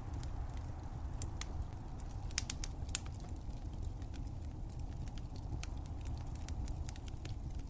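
Wood fire crackling, with irregular sharp pops and snaps over a steady low rumble; a few louder pops come in a cluster about two and a half to three seconds in.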